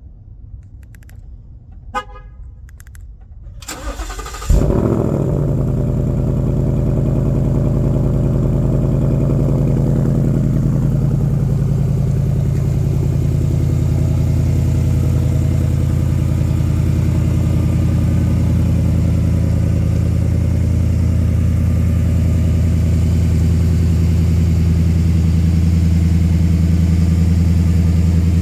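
2020 Ford Mustang GT's 5.0-litre V8 cranked and started cold through its active exhaust: it flares sharply as it catches about four and a half seconds in, then settles into a steady idle.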